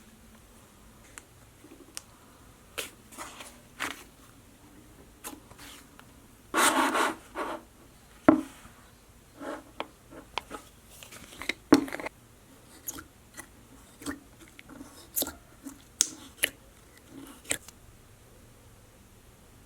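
Slime being handled: irregular clicks, pops and crackles, loudest in a short dense stretch about seven seconds in.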